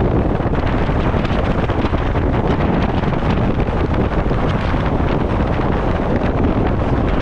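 Strong typhoon wind blowing across the microphone: loud, continuous wind noise with no let-up.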